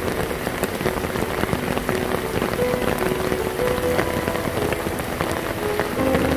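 Heavy rain pouring down, a steady dense patter of drops, with faint short pitched notes underneath.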